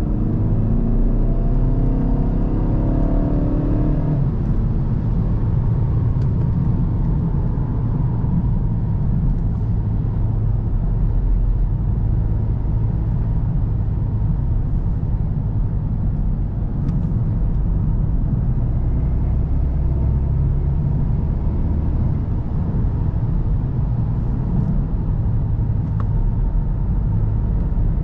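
VW Golf GTD's 2.0 TDI four-cylinder diesel accelerating, its pitch rising for the first few seconds. It then settles about four seconds in into a steady low rumble of engine and road noise at cruising speed.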